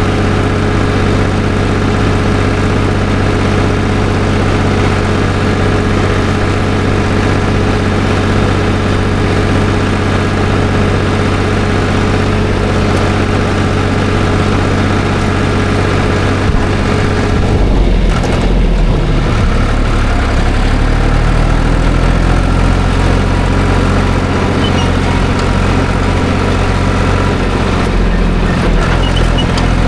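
Farm tractor engine running steadily while the tractor is driven. A little over halfway through, the engine note dips and shifts, then settles again at a steady pitch.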